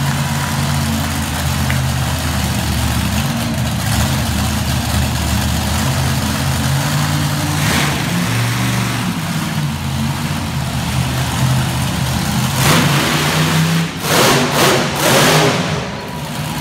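Monster truck engine running and revving, its pitch rising and falling, with several short loud blasts of revving near the end.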